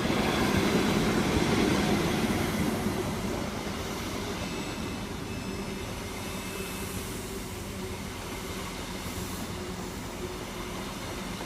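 Class 43 HST power car's diesel engine running as the train pulls into the platform, loudest for the first three seconds or so, then easing to a steady hum.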